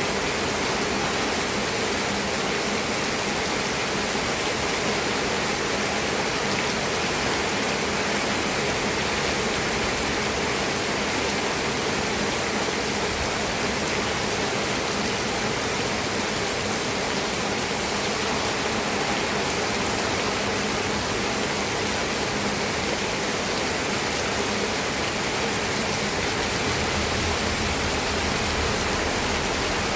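Steady rain falling, an even, unbroken hiss with no distinct drops or gusts standing out.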